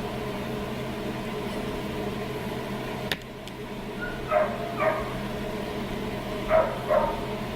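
A dog barking: two quick pairs of short barks, the loudest sounds, over a steady hum. A single sharp click comes about three seconds in.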